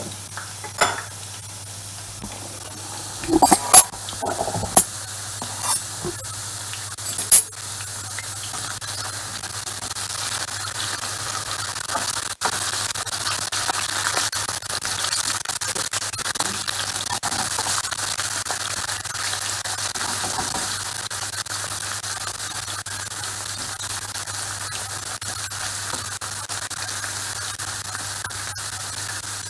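Diced potatoes frying in oil in a frying pan, a steady sizzle while they are turned with a spatula. A few sharp knocks come in the first several seconds before the sizzle settles in.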